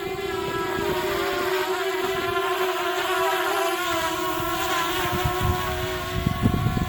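DJI Mavic Air's propellers whining steadily as the drone hovers in strong wind, its pitch wavering slightly as the motors work to hold position. Wind buffets the microphone with low rumbles, heavier near the end.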